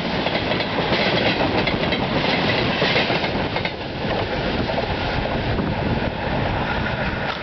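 Freight train passing close by: a steady rumble of wagons with the wheels knocking over the rail joints.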